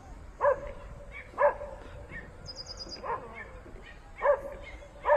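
A dog barking five times, about a second apart. A bird gives a short, high, rapid chirping trill in between.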